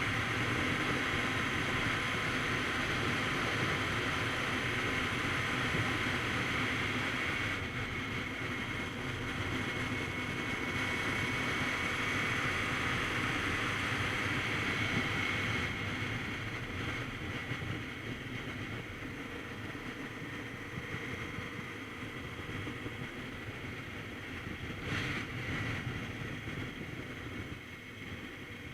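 Kawasaki Z900RS Cafe motorcycle under way: steady wind noise on the microphone over the engine's running hum. The sound steps down in level about eight and again sixteen seconds in.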